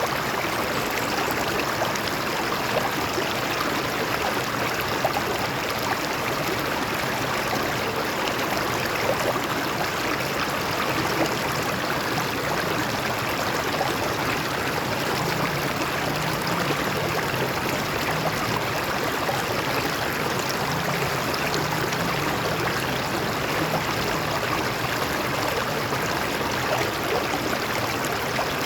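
Stream water flowing and splashing over rocks, a steady rushing and gurgling with no letup.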